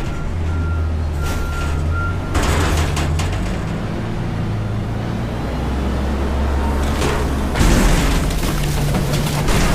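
Front-load garbage truck's engine running steadily, its reversing alarm giving a few beeps in the first two seconds. A loud burst of noise comes about two and a half seconds in, and another near the end.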